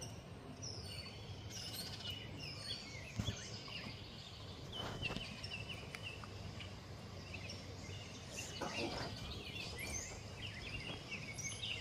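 Several songbirds chirping and singing at once, with many short overlapping calls, over a low steady background hum.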